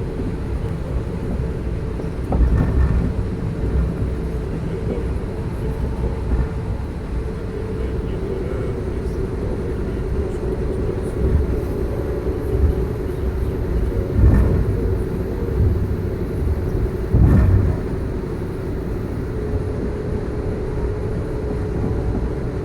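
Amtrak passenger train running: a steady low rumble with a constant hum, broken by three louder jolts or knocks spread through it.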